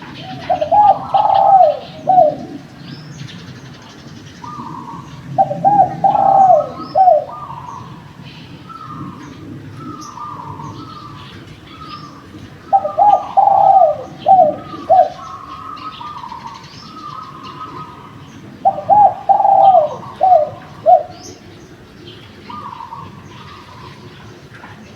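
Derkuku (island collared dove) cooing: four loud phrases of several coos each, the last notes short and clipped, roughly every six seconds. Fainter cooing from another dove fills the gaps, with light chirps of small birds behind.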